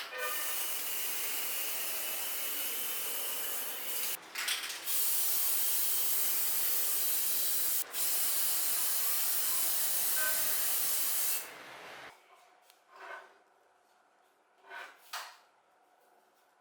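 Steady hiss of a compressed-air spray, interrupted briefly twice and cut off about three-quarters of the way through, followed by a few faint light knocks.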